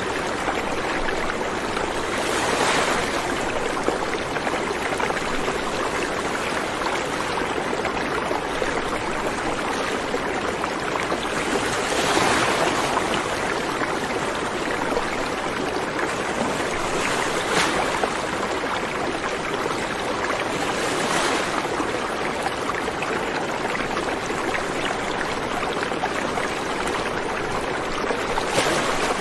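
River water flowing steadily over stones, with brief louder splashes and surges every few seconds.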